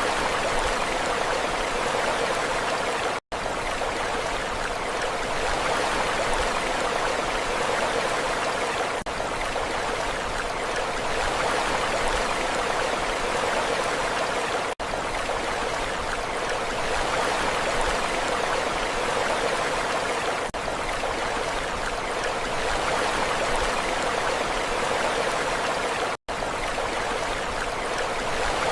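Steady rushing water, an even wash with no rise and fall of waves, that cuts out for an instant three times.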